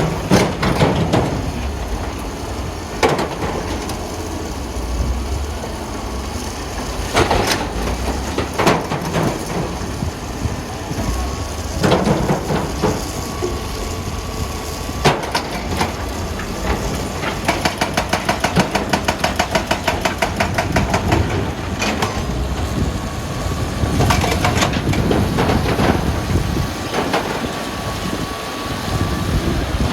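Heavy wheel loader's diesel engine running under load, with repeated loud knocks and clatters of rocks striking metal. In the middle a fast, even rattle of about five or six strokes a second lasts a few seconds.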